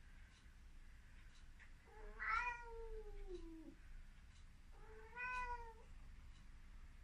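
Ragdoll cat meowing twice: a long meow about two seconds in that drops in pitch at its end, then a shorter one about five seconds in.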